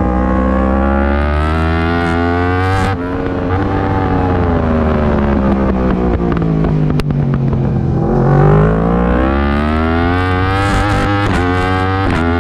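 Yamaha R1 crossplane inline-four engine at racing speed, heard from on board. The revs climb to a gear change about three seconds in, drop away steadily for several seconds as the bike slows, then climb again as it accelerates near the end.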